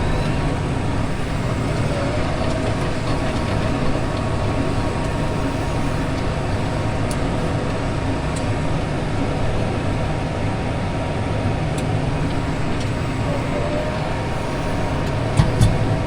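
Case IH Maxxum 150 tractor running steadily with its Case IH DC133 discbine mower-conditioner engaged, a continuous mechanical drone. Two short knocks near the end.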